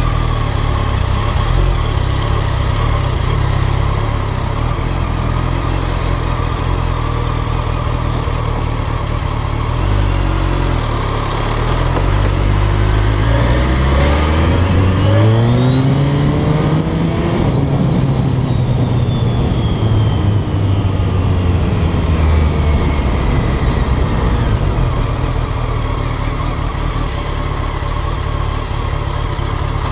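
BMW motorcycle engine running in traffic, revving up steadily about halfway through, then easing back down and settling to a steady run.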